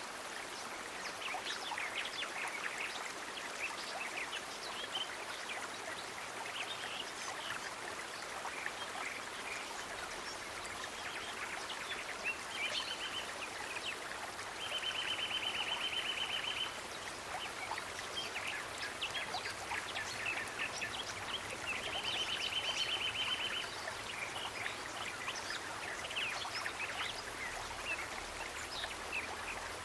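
Water running steadily in a stream, with many short high chirps scattered throughout. Three longer, evenly pulsing trills come in, the second and third lasting about two seconds each.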